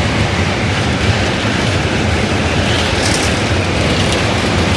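MEMU electric passenger train running over a steel truss rail bridge: a steady, loud rumble of wheels on rails and girders, with a few short, sharp clicks about three and four seconds in.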